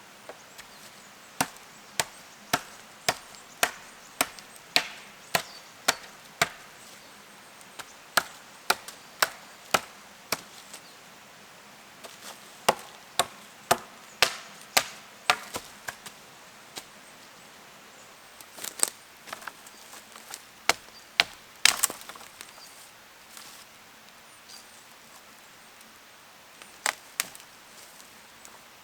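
Wood being chopped with a blade: sharp strikes about two a second in runs of several, with pauses between runs and a few looser strikes in the second half.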